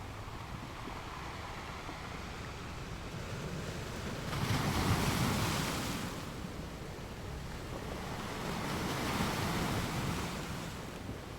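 Ocean surf: waves washing in as a steady hiss, with two louder surges, a strong one about four seconds in and a softer one near the end.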